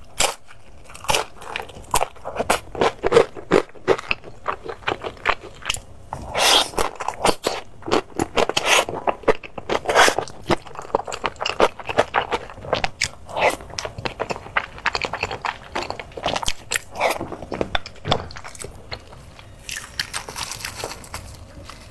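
A person eating crunchy food: repeated crisp bites and crunchy chewing, irregular and close, with some scraping.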